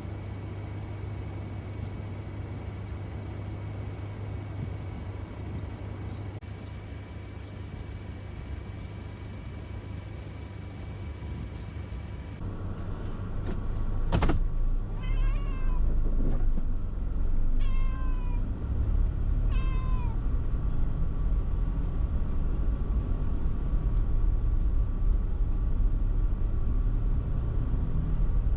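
Domestic cat meowing three times in quick succession, a few seconds apart, over a steady low vehicle rumble. A sharp click comes just before the first meow.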